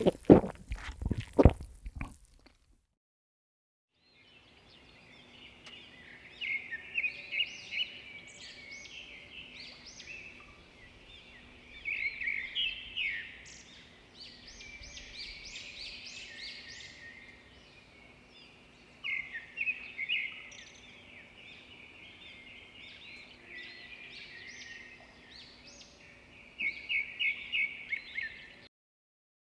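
Songbirds chirping and twittering over a faint steady background hum, a nature-ambience sound effect that stops abruptly. It is preceded by a few loud, sharp knocks in the first two seconds.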